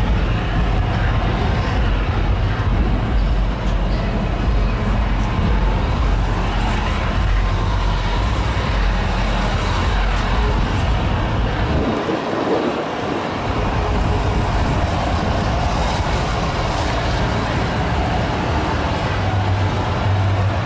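Car engine idling with a steady low rumble; the rumble drops out briefly about twelve seconds in.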